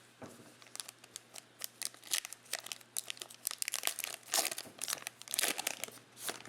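Wrapper of a trading-card pack being torn open and crinkled: a quick run of crackles that grows denser in the second half.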